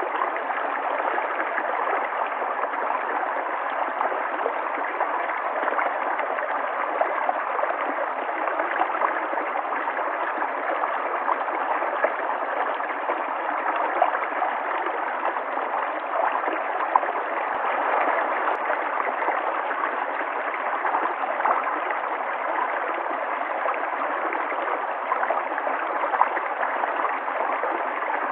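River water flowing and gurgling over rocks, a steady rushing with small splashes throughout.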